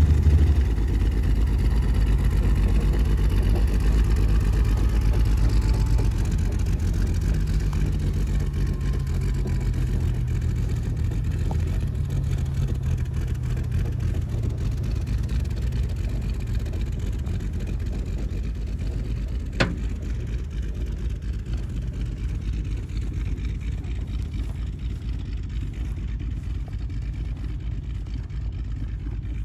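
Ford Maverick engine, back running after sitting seized for 26 years, running steadily with a deep low rumble. Its speed and loudness slowly ease down, with one sharp click about twenty seconds in.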